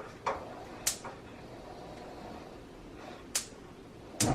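Kitchen handling clatter: a few sharp clicks and knocks, spaced about a second or more apart, with the loudest near the end, over a faint steady background.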